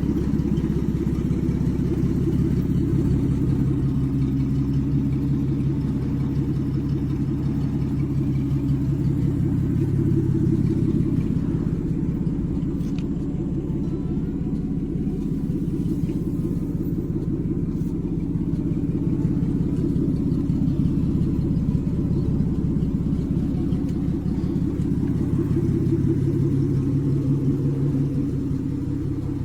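1948 Chrysler Windsor's flathead straight-six engine running with a steady low rumble, swelling a little twice.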